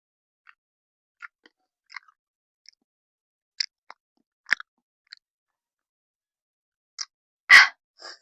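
Close-up mouth sounds of someone chewing thick, creamy instant noodles: small wet clicks every half second or so, with a louder breathy sound, about a third of a second long, near the end.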